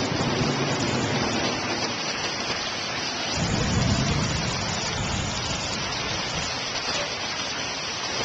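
Steady rushing noise of fast-moving floodwater and rain, with a louder, deeper stretch about three and a half seconds in.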